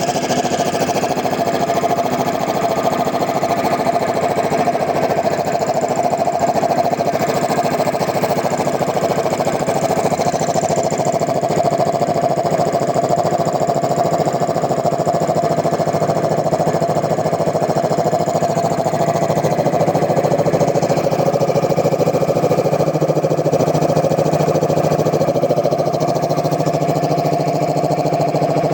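A piston air compressor with a newly fitted Puma pump head runs steadily off its electric motor, with a fast, even mechanical pulsing over a hum. The low hum grows a little louder past the middle.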